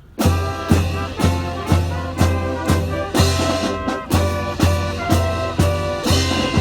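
Brass band music starting suddenly, with held brass chords over a strong, steady beat about twice a second, as accompaniment to a drill display.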